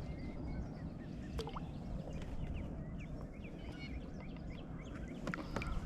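Small birds chirping and twittering in quick short notes over a steady low rumble of outdoor air and water, with a few sharp clicks about a second and a half in and again near the end.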